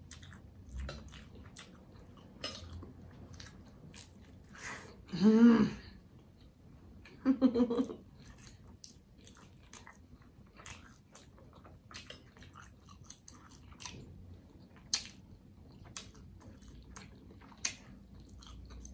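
Close-miked chewing of a soft pretzel-bun cheeseburger dipped in cheese sauce: scattered wet mouth clicks and smacks. About five seconds in, and again two seconds later, there is a short hum-like sound from the voice; these are the loudest moments.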